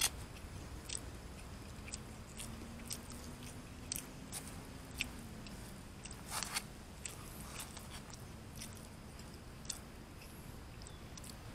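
A person chewing food close to the microphone, with scattered short clicks and smacks.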